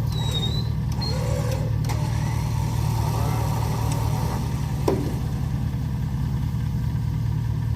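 A steady low engine hum, like a motor running at idle, with one sharp click about five seconds in.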